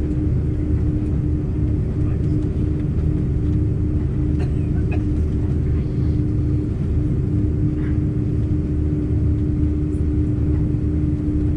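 Airbus A330-300 airliner: a steady low rumble with a constant mid-pitched hum and a few faint clicks. The level holds flat, with no spool-up.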